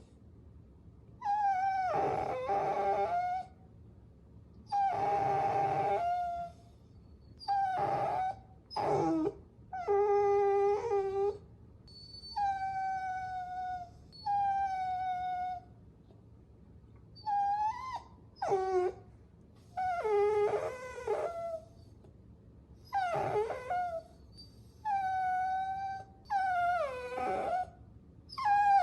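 Puppy whining: a string of high-pitched whines, each one to two seconds long, many sliding down in pitch at the end, with short pauses between.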